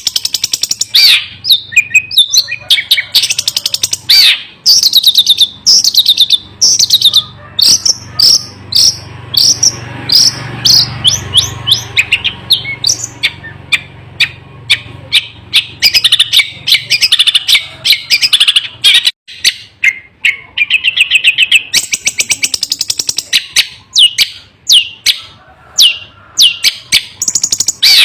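Long-tailed shrike (cendet) singing a continuous, rapid string of loud chirps and quick down-slurred notes, barely pausing, with a faint low hum under it for a few seconds in the middle.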